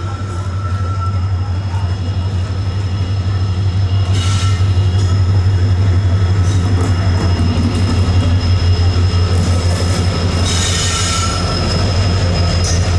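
Indian Railways WDP4D diesel-electric locomotive passing close by with its passenger coaches: a loud, steady low engine drone over the rumble of steel wheels on the rails, with a thin high squeal. Two short bursts of high hissing noise come about four seconds in and again near eleven seconds.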